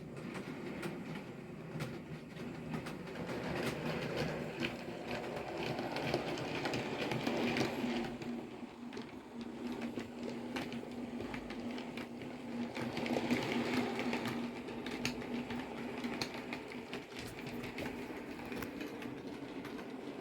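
OO gauge model train running on the layout's track: its small electric motor whirs while the wheels click over the rail joints. It grows louder twice as it passes close, with a steady motor hum through the middle.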